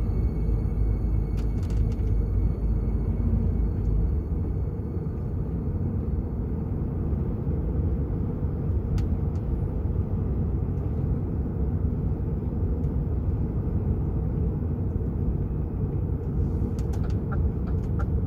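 DAF XF 480 lorry on the move: a steady, low rumble of engine and road noise. A few faint clicks come near the end.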